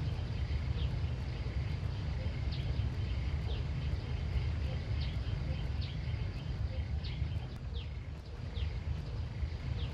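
Outdoor ambience: steady low rumble like wind on the microphone, with short high chirps that fall in pitch, repeating every second or so.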